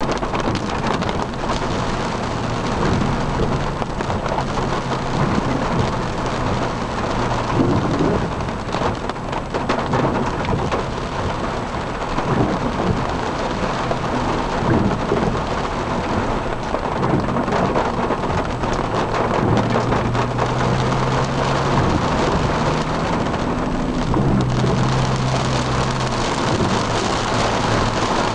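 Heavy rain beating on a car's roof and windshield, heard from inside the cabin as a loud, steady rush, with a low engine hum that comes and goes underneath.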